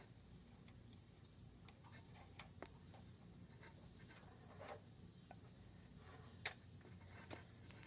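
Faint scattered clicks and scratches of thin wire being worked into the gap around a rear shock absorber bolt, with one sharper click about six and a half seconds in. The wire is packing the loose bolt hole to stop the bolt rattling.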